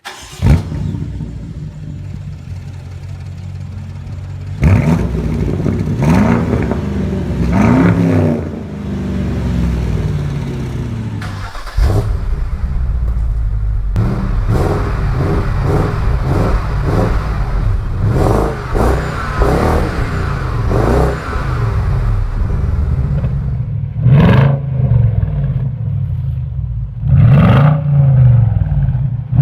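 BMW X5 exhaust with the engine running stationary and being revved: a sudden loud start about half a second in, then idle broken by repeated rising and falling revs, a run of quick short blips in the middle, and two sharp blips near the end.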